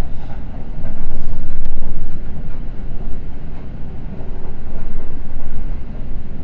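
Seibu Red Arrow limited express train running at speed, heard on board: a steady low rumble of wheels on rail that swells louder about a second in, with one brief click.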